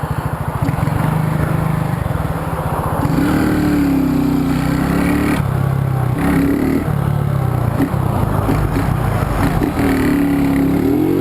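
Honda CG Fan 125's single-cylinder four-stroke engine running steadily at low revs, then pulling away about three seconds in. It revs up in steps, with short dips as it shifts up through the gears.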